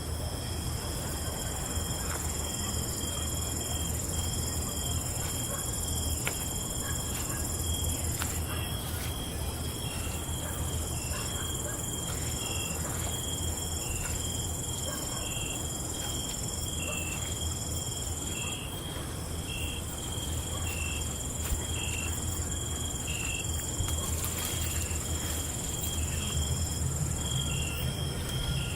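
Night insect chorus: crickets trilling steadily at several high pitches, one of them chirping in short regular notes about every two-thirds of a second, over a low steady rumble.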